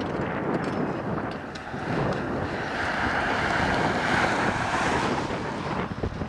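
Strong wind rushing over the microphone, a steady noise that swells in the middle and eases toward the end.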